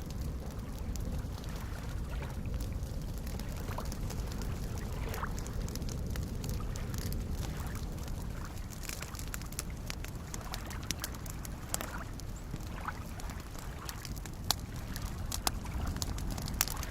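Small waves lapping at a lake shore in a steady low wash, with a campfire crackling over it in sharp, irregular pops and snaps that come more often in the second half.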